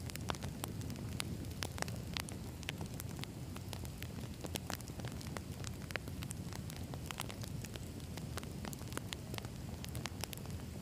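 Campfire wood burning: many irregular sharp crackles and pops over a steady low rush of flame noise.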